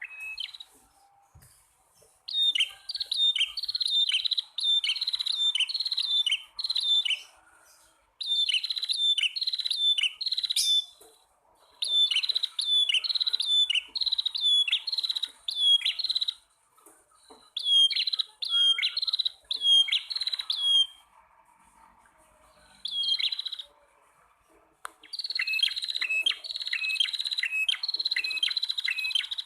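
Prenjak tamu (a prinia), male and female, calling: fast runs of sharp, repeated chirps, about two to three notes a second, in bursts of a few seconds with short pauses between.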